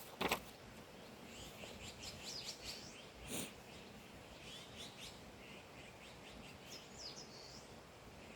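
Small birds chirping in quick bursts of short, high calls, in two spells with a pause between. A sharp knock comes just after the start, and a brief rustle comes a little before the middle.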